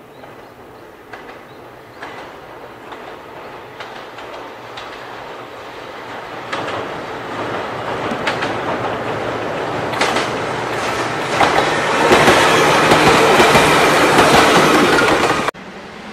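Electric commuter train approaching across a steel girder bridge, its wheels clacking over rail joints and its running noise growing steadily louder. It passes close at its loudest, then cuts off suddenly near the end.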